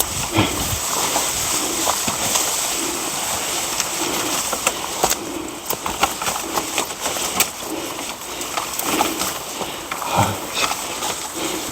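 Water splashing and sloshing, with scattered clicks, while a bird calls repeatedly in short low notes.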